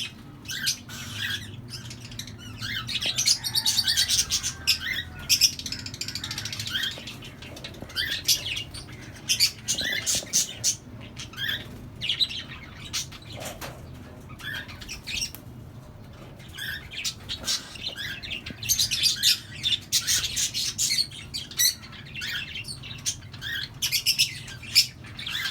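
A colony of small pet parrots, lovebirds and cockatiels among them, chirping and squawking on and off, with many short, sharp calls overlapping.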